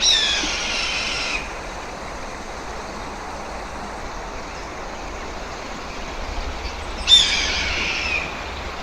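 Red-tailed hawk giving its long, drawn-out 'kia' scream twice, each call falling in pitch. The first comes at the start and the second about seven seconds in, over a steady background hiss.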